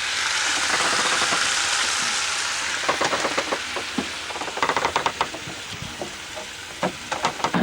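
Water rushing and fizzing past a moving sailing boat's hull. The hiss swells over the first couple of seconds and then fades, with scattered knocks in the middle and near the end.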